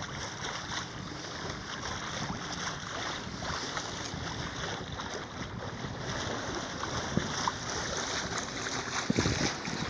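Steady rush of wind on the microphone and water moving past the hull of a sailboat under sail in a 10 to 15 mph breeze, making about 4 knots, with a few faint knocks near the end.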